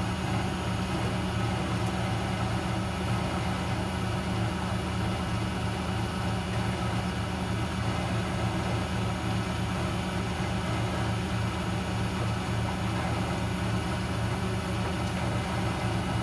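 Miele W 759 front-loading washing machine running with a steady, even motor hum.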